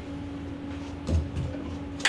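A dull clunk about a second in, then a lighter knock, from the Jeep's exhaust parts and tools being handled while the muffler is worked off its rubber hangers. A steady hum runs underneath.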